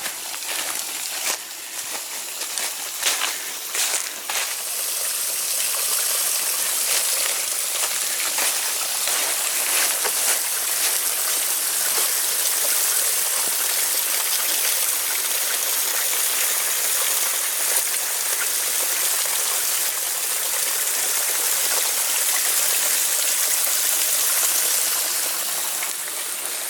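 Small creek rushing and splashing steadily. A few scattered knocks sound in the first few seconds.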